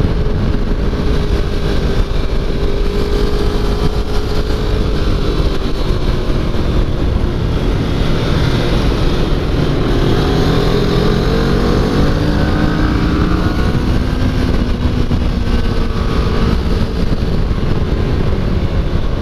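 Motorcycle engine ridden hard on track, its revs climbing and dropping through gear changes and braking, over a heavy low rush of wind.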